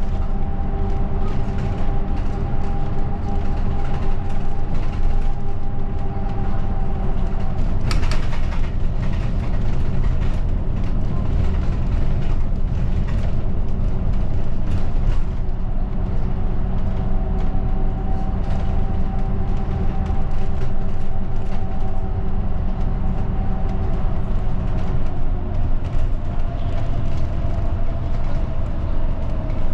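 Route bus under way, heard from inside the passenger cabin: a steady low engine hum and road rumble, with the engine tone drifting slowly up and down. A brief sharp noise about eight seconds in.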